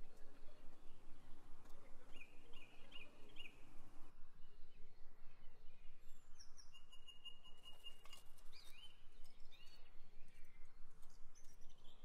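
Wild birds chirping and calling over a low steady background hum: a quick run of chirps a few seconds in, then one long whistled note and more short calls in the middle.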